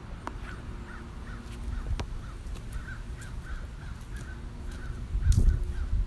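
A bird calling over and over in short, evenly spaced calls, about three a second. Under it is a low rumble that grows loud near the end.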